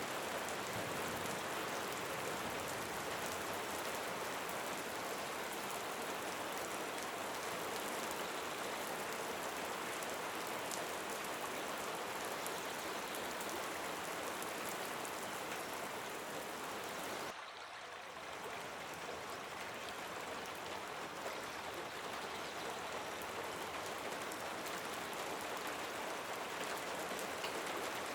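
Steady hiss of water, rain-like, with a brief dip in level about seventeen seconds in.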